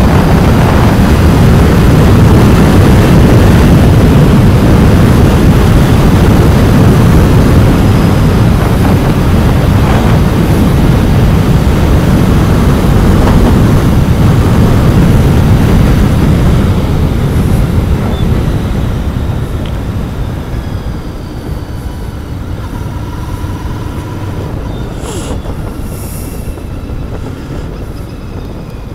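Royal Enfield Continental GT 650's 648 cc parallel-twin engine on its stock exhaust, ridden under way with road noise. It is loud for the first half, then grows steadily quieter over the last ten seconds or so as the throttle comes off.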